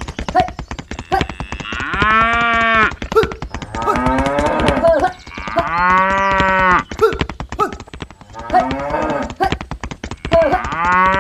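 Cow mooing: three long moos about four seconds apart, with shorter calls between them, over a fast run of clicks.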